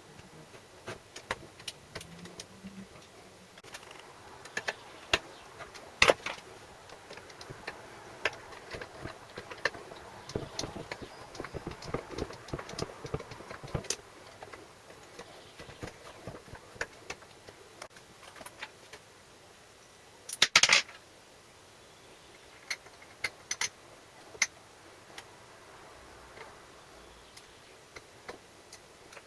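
Metal parts and hand tools being handled on a workbench: irregular light clicks, taps and clatters. A sharp knock comes about six seconds in and a short burst of clattering about twenty seconds in.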